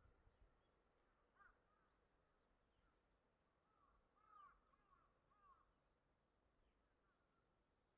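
Near silence with faint bird calls: a couple of short arched calls about a second and a half in, and a small cluster of them from about four to five and a half seconds in.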